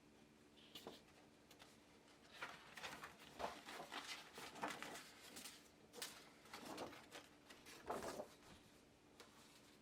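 A run of short scrapes and rustles, about a dozen in five seconds, from leather being handled and worked on a bench.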